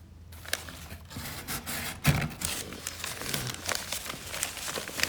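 Close rustling and crinkling with scattered clicks and a heavier knock about two seconds in.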